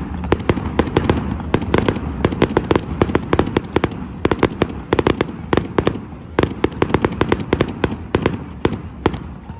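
Aerial fireworks display: rapid bangs and crackles, several a second, over a low rumble, easing off just before the end.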